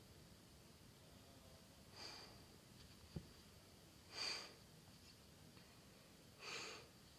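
Near silence broken by three short breaths close to the microphone, about two seconds apart, with a faint click between the first two.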